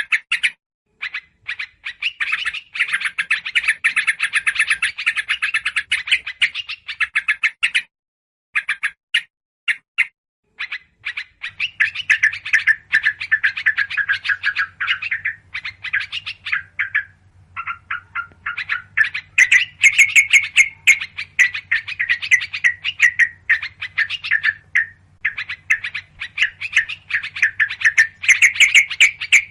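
Yellow-vented bulbuls (trucukan) calling in a noisy, agitated bout: fast strings of short chattering notes in several long bursts broken by brief pauses, played as a bird-lure recording.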